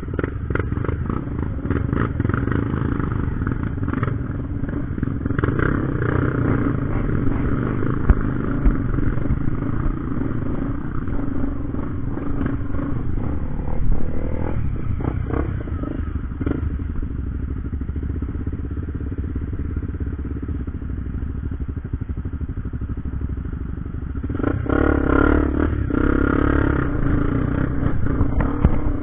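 Motorcycle engine running steadily under way, with scattered clattering knocks; it gets louder from about 24 seconds in.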